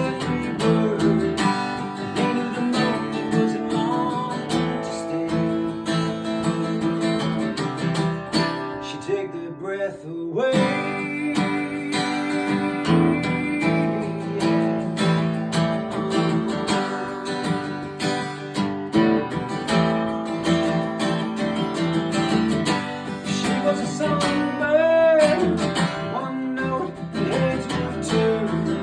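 Acoustic guitar strummed through an instrumental passage of a folk song, with a short break in the playing about ten seconds in.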